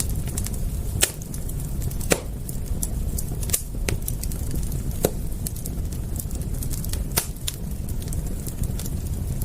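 Wood fire crackling: irregular sharp pops and snaps, a few louder ones every second or two, over a steady low rumble.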